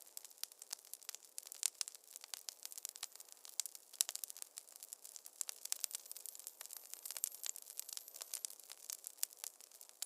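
Wood fire crackling in a fireplace: dense, irregular sharp snaps and pops, several a second, over a soft hiss.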